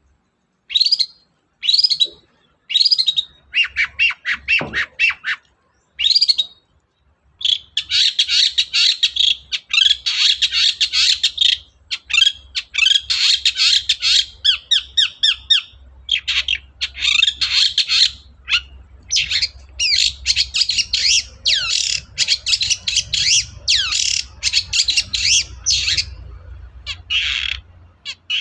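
Long-tailed shrike (cendet) singing: a few separate sharp calls, then from about seven seconds in a long, fast chattering song of rapid high notes, the full song mixed with imitations of other birds.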